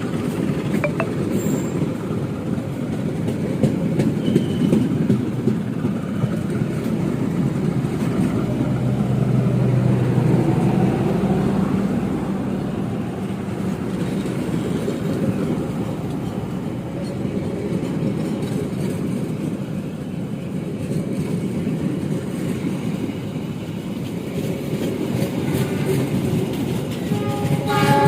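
Diesel-hauled passenger train rolling slowly past, a steady low rumble of locomotive engine and wheels on the rails that is loudest about ten seconds in.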